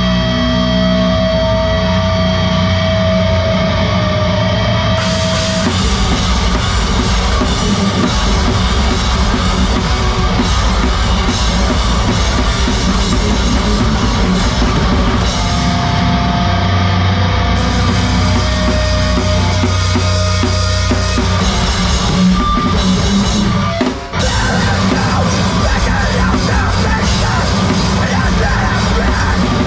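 A live heavy rock band playing loud, with distorted guitars, bass and a drum kit. The cymbals come in a few seconds in, and the band stops briefly about three-quarters of the way through before crashing back in.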